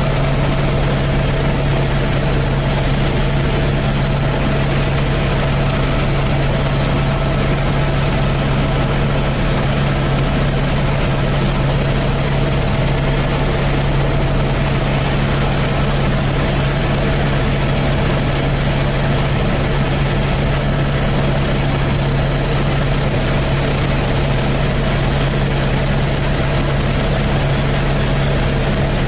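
Helicopter in flight heard from inside the cabin: a loud, steady drone of rotor and engine, with a constant low hum and a fainter, higher steady tone over dense noise.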